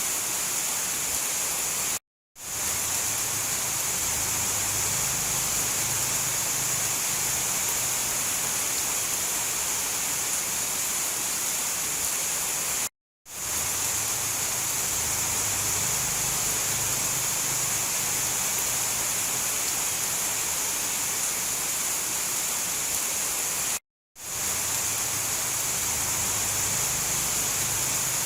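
Steady rain noise, bright and hissing, with a faint low rumble underneath. Three times, about every eleven seconds, it cuts to silence for a split second and fades back in.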